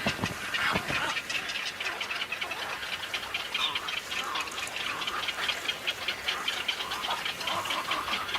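Waterbird breeding colony calling: a fast, steady chatter of ticking calls, about five a second, with harsher calls over it.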